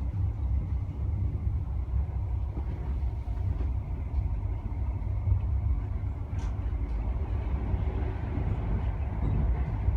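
Steady rolling rumble of an InterCity 125 (HST) Mark 3 coach in motion, heard from on board: wheels and bogies on the rails, deep and even, with one faint click about six seconds in.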